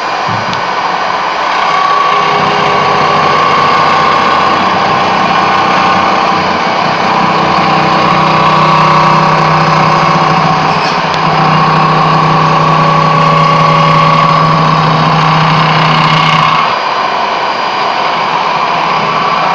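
Power tool profiling the edge of a Ruschita marble slab: a steady motor whine over grinding noise, which drops in level about three seconds before the end.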